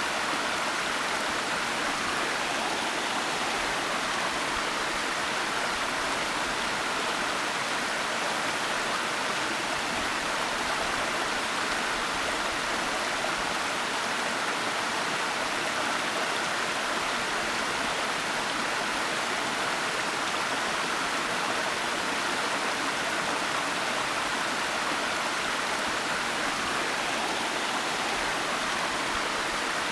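Waterfall: falling water rushing in a steady, unbroken hiss, strongest in the upper middle of the range, with no drops or splashes standing out.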